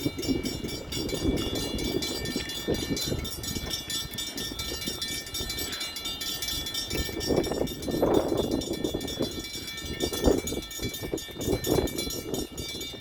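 Freight train rolling slowly past, a low rumble with irregular clanks from the cars, while crossing bells ring steadily.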